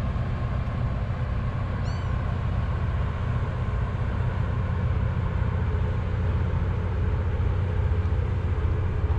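Engine of a passing work boat, a steady low rumble that holds even throughout.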